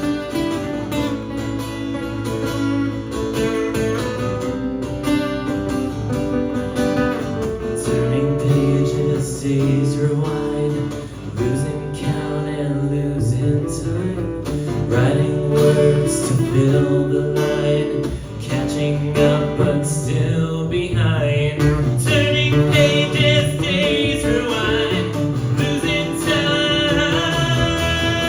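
Live acoustic song: acoustic guitar strummed and picked in sustained chords, with a voice singing over it in the second half.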